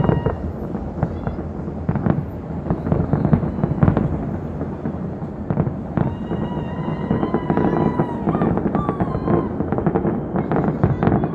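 Fireworks display: a dense run of bangs, pops and crackling. A whistling tone comes in about six seconds in and holds for about two seconds.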